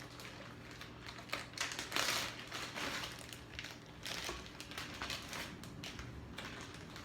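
Crinkling and rustling with scattered light clicks and knocks as potatoes are handled and added to a pan, loudest about two seconds in.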